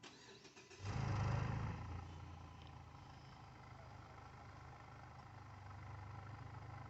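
Mazda 6 engine starting: a short crank, then it catches about a second in with a brief flare in revs that dies down, settling into a quiet, steady idle at the exhaust.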